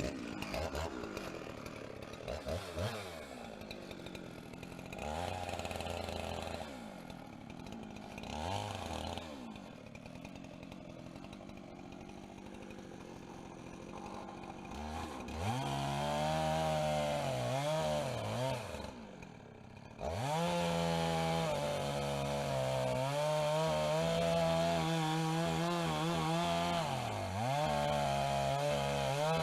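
Husqvarna 390XP two-stroke chainsaw idling with a few short throttle blips, then held at full throttle ripping lengthwise through a pine log on a chainsaw mill, its pitch sagging under load. The engine eases off briefly about two-thirds of the way in, then carries on cutting.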